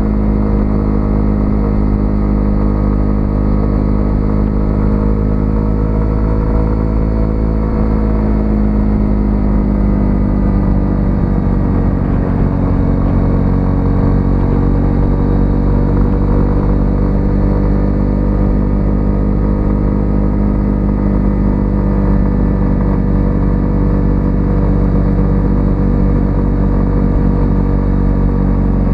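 A 125cc single-cylinder motorcycle engine running steadily while riding. Its pitch dips slightly about ten seconds in, then holds steady.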